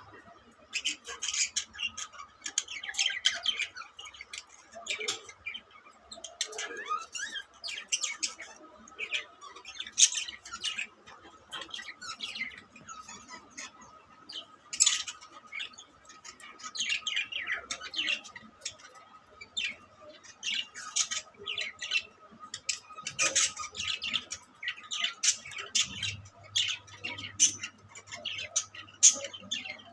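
Budgerigars chirping and squawking almost without a break: many short, rapid, scratchy calls, with a few louder squawks scattered through.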